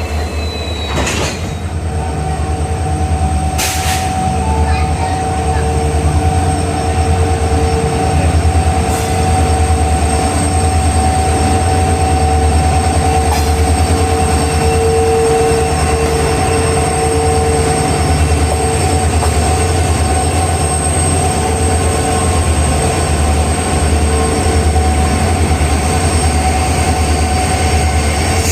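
EMD diesel locomotive and its train running at a station, with a heavy, steady low engine throb and sustained tones over it. There are a couple of short sharp noises in the first few seconds.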